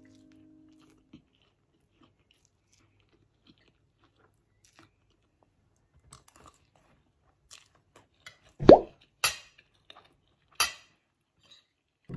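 Close eating sounds: a person chewing and crunching a mouthful of food, mostly faint. In the second half come a few sharp clinks of a metal fork and spoon on the plate.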